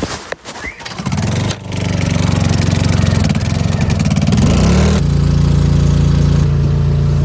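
A vehicle engine starts about a second in after a few knocks, runs, then rises in pitch about five seconds in and holds a steady higher speed.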